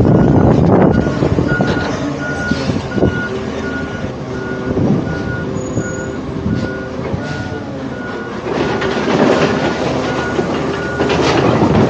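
Recycling garbage truck backing up, its reversing alarm beeping at one pitch about one and a half times a second over the running engine. The beeps start a second or so in and stop near the end.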